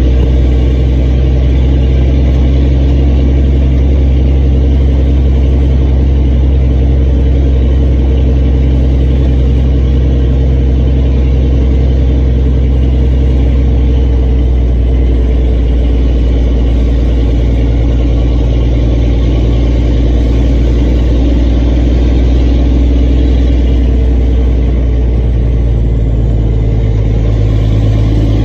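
Dump truck's diesel engine running steadily at a constant speed, a loud low drone, with a slight change in its pitch near the end.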